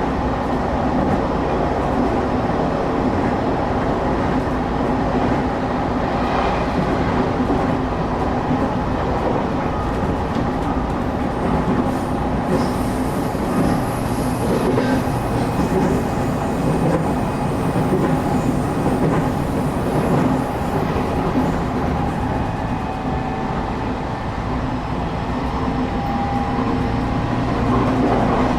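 Steady running noise inside a moving passenger train carriage: a continuous rumble of wheels on the rails with a steady hum underneath, and no distinct clickety-clack rhythm.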